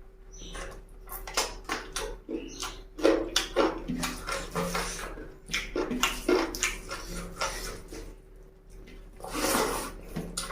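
Close-miked eating: wet chewing and lip-smacking with many sharp clicks, and a longer wet slurping burst about nine seconds in.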